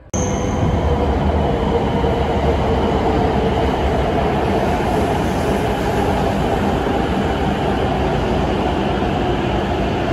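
An E7/W7-series Shinkansen train running alongside the platform, a steady loud rumble of wheels and running gear that starts abruptly.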